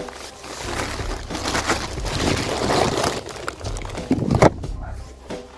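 A rubbish bag crinkling and rustling as litter is handled, with one sharper crack about four and a half seconds in.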